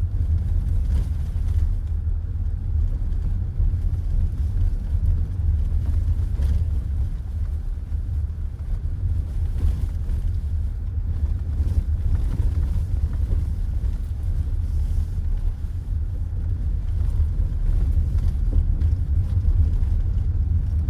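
Steady low road and tyre rumble of a car driving, heard from inside the cabin.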